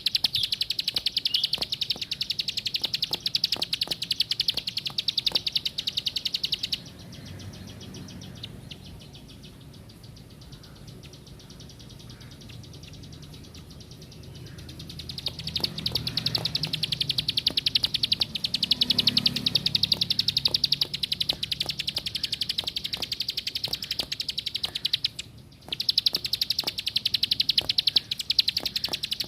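Plain prinia (ciblek sawah) singing a long, very rapid, high-pitched chattering trill. It stops about seven seconds in, starts again about eight seconds later, and breaks off briefly once more near the end.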